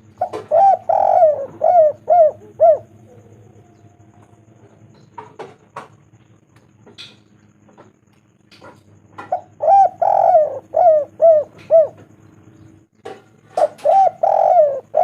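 Spotted dove (tekukur) cooing loudly in three phrases, each a run of about six to eight short hooked coos; the phrases come right at the start, about nine seconds in, and again near the end.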